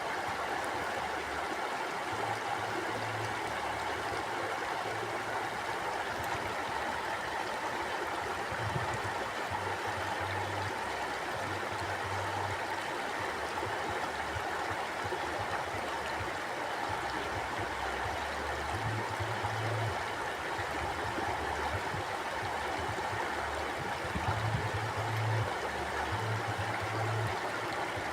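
Mountain stream flowing: a steady, even rush of water, with a low rumble that comes and goes underneath.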